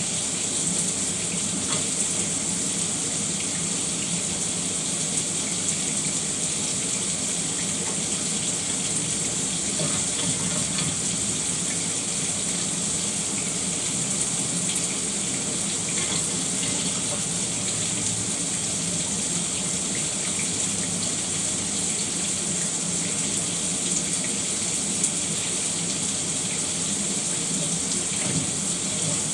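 Shower running steadily, water spraying and splashing down onto a hard surface.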